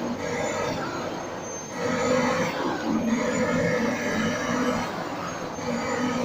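Vacuum cleaner running with a steady motor whine, its sound swelling and dipping every second or two.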